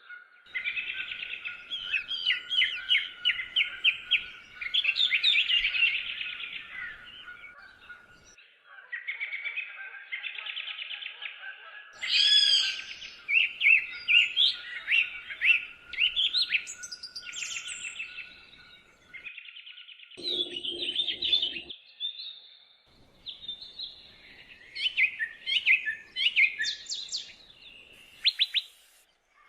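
Several songbirds singing together: overlapping chirps, whistled notes and quick trills, with a thin steady high tone underneath for most of the first two-thirds. The song breaks off briefly a few times.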